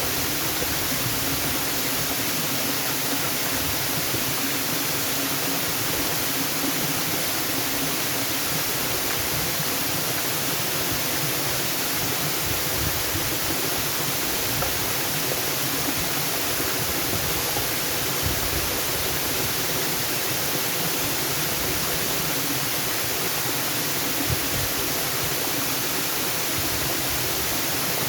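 Waterfall: a steady, unchanging rush of falling water, strongest in the high hiss, with no breaks or separate splashes.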